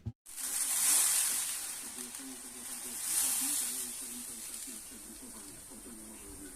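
Two drawn-out hisses, one about a second in and another about three seconds in, each swelling and fading, over a faint low murmur.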